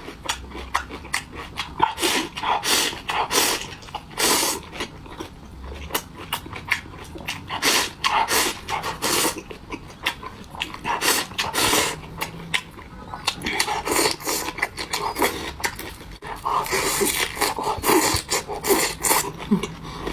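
Close-miked eating: a rapid run of crunching bites and slurps of sorghum rice in water with soy-sauce-dressed vegetables.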